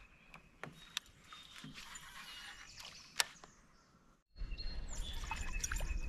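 Birds chirping and singing, with a few sharp clicks. About four seconds in the sound drops out briefly, then comes back louder with a low rumble under the continued birdsong.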